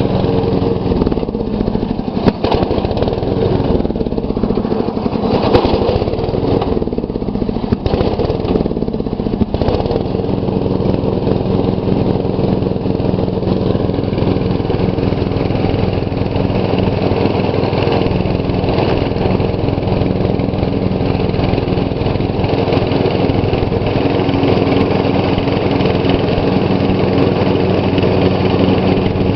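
MTD riding lawn tractor's engine running steadily with the mower deck working, a few sharp clicks and some wavering in the engine note in the first ten seconds.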